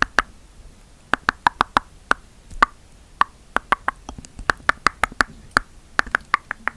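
Tongue clicks made close to the microphone: a string of sharp, hollow mouth clicks, a few a second, each at a slightly different pitch, with a short pause near the start.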